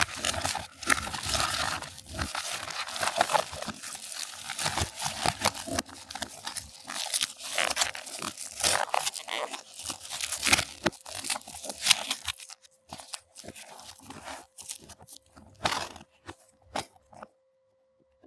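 Drone packaging being handled: dense crinkling and crunching of plastic wrap and cardboard, thinning about twelve seconds in to scattered clicks and taps.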